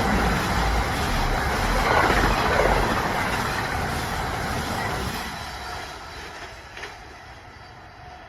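A train passing along the tracks, its rumble loud at first, then fading away over the last few seconds as it moves off.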